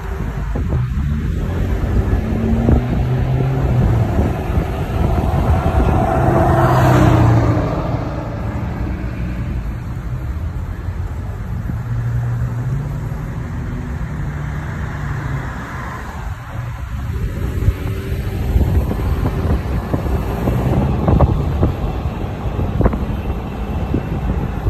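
Jeep engines running low and steady in a slow-moving line of vehicles, with road and wind noise; the sound swells louder about seven seconds in.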